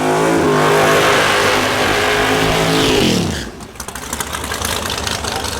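Drag race car engine running at full throttle for about three seconds, its pitch then dropping steeply as the car passes or lifts off, leaving a quieter, rough crackling rumble.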